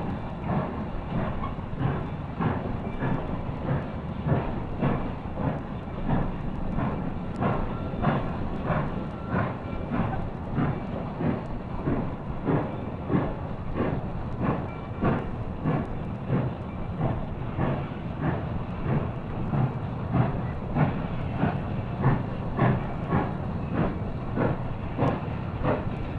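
Steam locomotive working, its exhaust beating in a steady, even rhythm.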